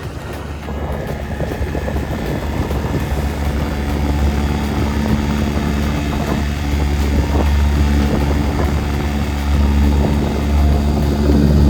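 Boat motor running steadily under way, building up over the first few seconds and then holding at a steady drone.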